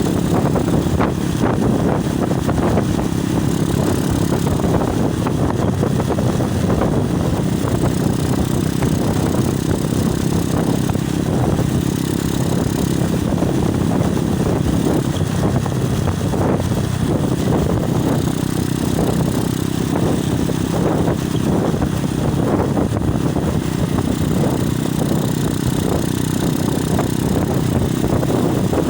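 Wind buffeting a mobile phone's microphone on a moving motorcycle: a loud, steady low rumble, with the motorcycle engine running underneath it.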